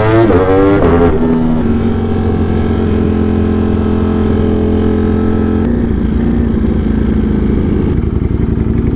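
A 200-plus-horsepower motorcycle engine slowing down in the first second, then idling steadily.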